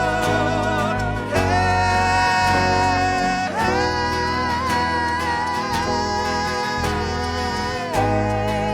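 Worship band playing a praise song, with a lead voice or melody holding long notes that change pitch three times over a steady accompaniment.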